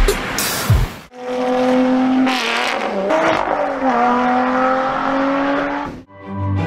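A car engine running hard for about five seconds, its pitch holding, dipping and climbing again as it revs through the gears, with tyre noise under it. A second of electronic music comes before it, and music starts again near the end.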